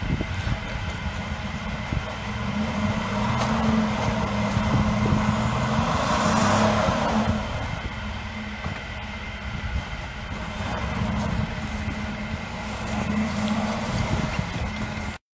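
Mercedes GL 500 4Matic's V8 engine running under load while its wheels spin in deep snow, the car stuck and not moving. A rushing noise swells and fades about six to seven seconds in, and the sound cuts off suddenly just before the end.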